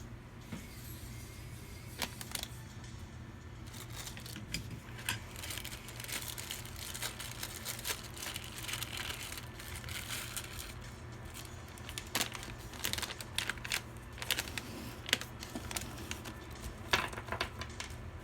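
Hands handling objects: irregular crinkling and rustling with scattered sharp clicks and taps, over a steady low hum.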